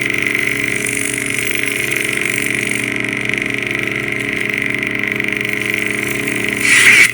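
Lightsaber hum of the 'Pitch Black' sound font playing on a Plecter Labs Crystal Focus (CFX) saber soundboard: a steady, loud, buzzing dark-side hum, with a brief louder surge near the end.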